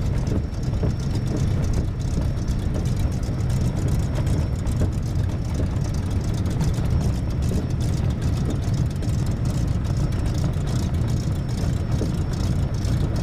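Propeller aircraft's piston engine running steadily, a loud low drone.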